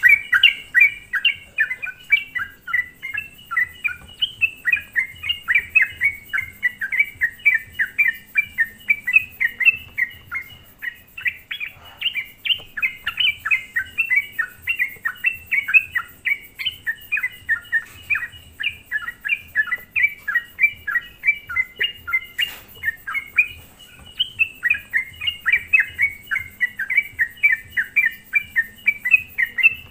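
Yellow-vented bulbul in full, vigorous song: a continuous run of quick bubbly chirping notes, about four or five a second, with only brief lulls. This is a lure song meant to excite other bulbuls.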